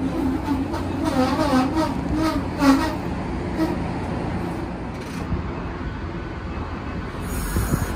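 Commuter passenger train rolling slowly along a station platform as it comes in to stop, with a steady low rumble and wavering whines during the first three seconds.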